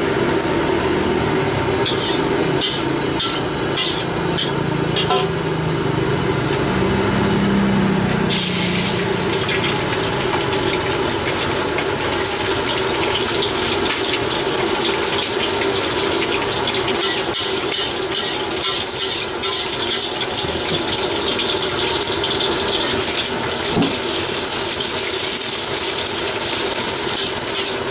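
Eggs and then rice frying in a hot steel wok over a stove burner: a steady sizzle over the burner's low hiss, which grows louder and brighter about eight seconds in. A few light clicks come between about two and five seconds in.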